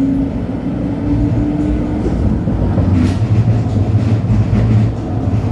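LHB TW2000 light-rail car running: a drive whine climbs in pitch for about two seconds, then gives way to a low steady hum over the rolling rumble. A single sharp click comes about three seconds in.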